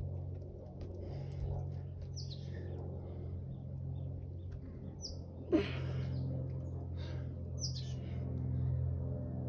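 A bird calling outdoors: a short, high chirp that falls in pitch, repeated about every two and a half seconds over a steady low hum. A single sharp knock comes about halfway through.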